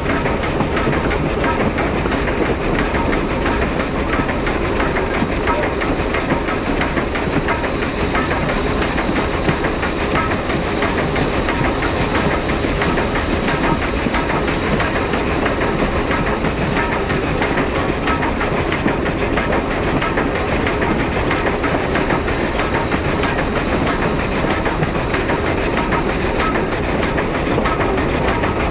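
Steam-hauled passenger train running steadily, heard from an open observation car: a continuous rumble and clatter of the car's wheels on the rails.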